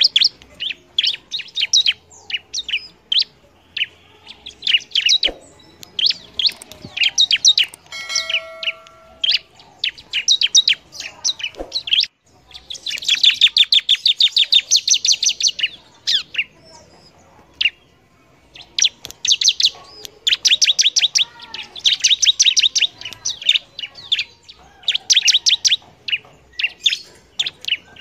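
A ciblek (prinia) singing energetically in repeated bursts of rapid, high chirps, with short pauses between phrases. The longest, loudest run of fast chirping comes about halfway through.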